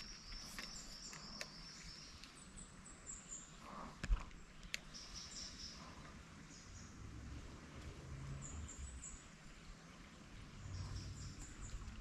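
Faint high-pitched bird chirps in short runs, with a sharp click about four seconds in.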